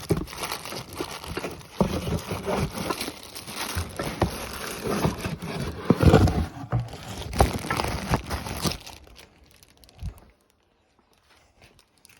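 Packaging crinkling and rustling with irregular crackles and knocks as new brake calipers are handled, dying away near the end.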